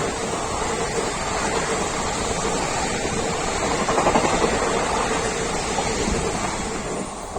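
Rajdhani Express train passing at speed close by: a steady, loud rush of wheel and air noise that falls away near the end.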